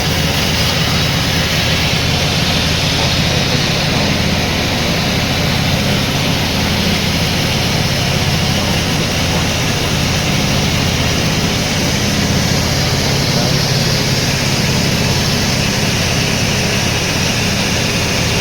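Sawmill machinery running steadily: a continuous low engine-like drone with a hiss over it, no breaks or changes.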